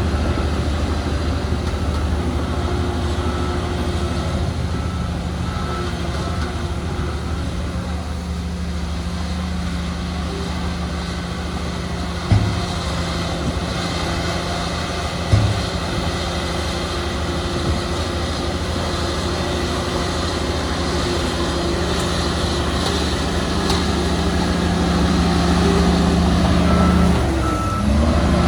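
Heavy diesel earthmoving machinery running steadily, with a reversing alarm beeping at the start and again near the end. Two sharp clanks come about three seconds apart midway, and near the end the engine note dips and climbs back.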